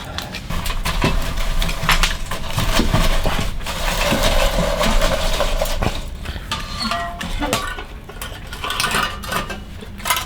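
Eating and cooking utensils clinking and scraping against dishes and pans: a run of irregular sharp clicks and knocks over a steady hiss.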